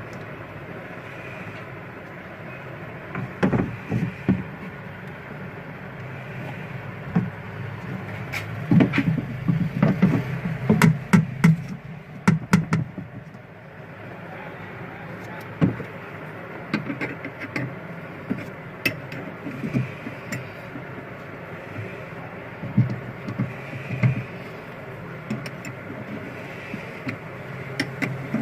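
Irregular knocks, clicks and clanks of hand work on a washing machine's rotor assembly, with a busy cluster about a third of the way in, over a steady background hum.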